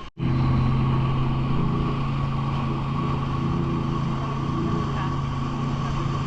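Jet ski engine running at a steady speed, an even hum that holds one pitch, starting abruptly after a brief dropout at a cut.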